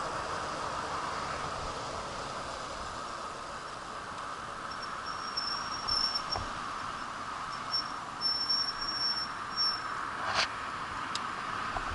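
Steady background hiss with a high, thin chirping that comes and goes through the middle, and a sharp click near the end.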